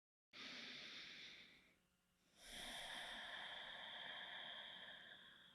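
A person taking one slow deep breath: a short faint inhale, then after a pause a longer faint exhale.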